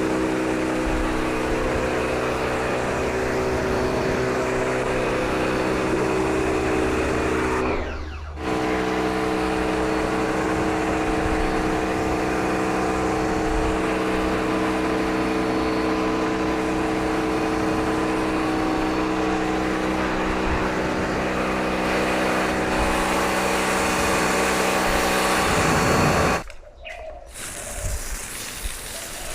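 Bosch electric pressure washer running with a steady motor hum and the hiss of its spray. It stops for a moment about eight seconds in, as the trigger is let go, then runs again. It cuts off near the end, leaving a faint patter of water.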